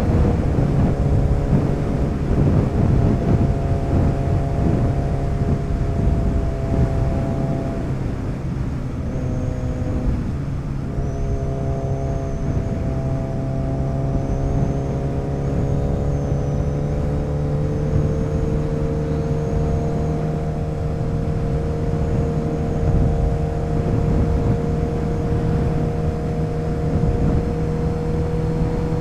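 Motorcycle engine running under way with heavy wind rush. Its note breaks up about eight to eleven seconds in, then rises slowly as the bike gathers speed, and holds steady after that.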